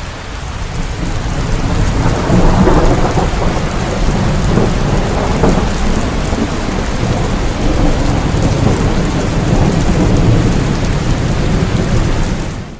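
Steady rain, with a deep rolling rumble that builds about two seconds in and holds; the sound fades out abruptly at the very end.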